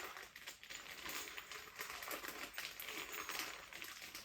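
Quick, irregular clicking and rustling from handling the parts of a flat-pack chest of drawers during assembly.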